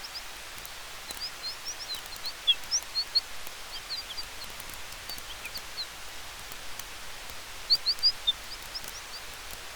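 Campfire and night-forest ambience: a steady hiss with faint sharp snaps, over which many short high chirps come and go, thickest about two and a half seconds in and again about eight seconds in.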